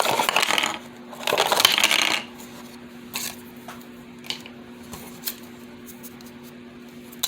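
Toy packaging being handled: two bursts of plastic rustling and crinkling in the first two seconds, then a few light clicks over a faint steady hum.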